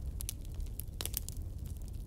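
Fire crackling: irregular sharp pops and snaps over a steady low rumble, the loudest pop about halfway through.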